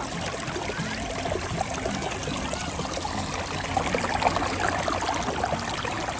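Shallow mountain stream running steadily over rocks.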